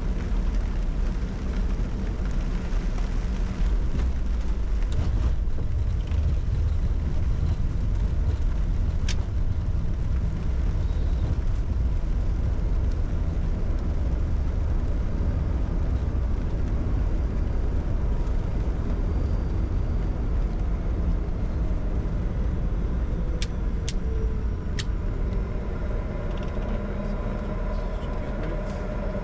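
Steady low rumble of a Bombardier Challenger 605's engines running on the ground, heard inside the cockpit. A few sharp clicks come through, and near the end some steady higher whining tones join in.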